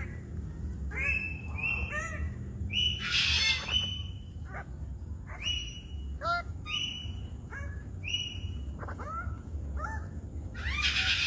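Bird-of-paradise calling over and over: short calls, some a flat high note, others quick rising-and-falling chirps, with two louder harsh bursts, one about three seconds in and one near the end. A steady low hum runs underneath.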